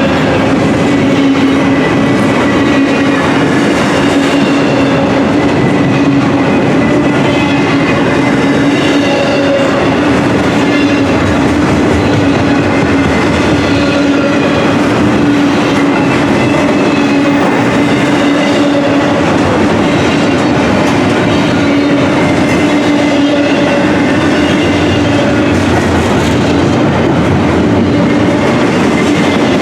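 Intermodal container freight cars rolling past on steel wheels, with a steady clatter of wheels on the rails and a steady low hum.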